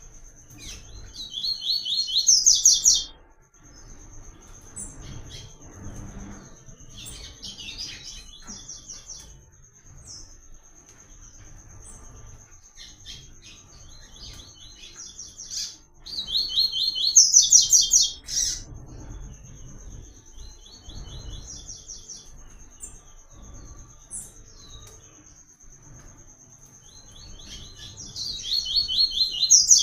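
Papa-capim seedeater (coleiro) singing its 'tui tui' song: three loud, fast trilled phrases about fourteen seconds apart, with softer chirps between them. A thin, steady high tone runs behind most of it.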